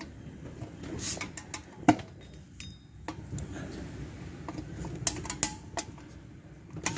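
Pliers clinking against a rear drum-brake shoe hold-down spring clip as it is pushed in and twisted to release it: scattered sharp metallic clicks, bunched about a second in and again around five seconds in.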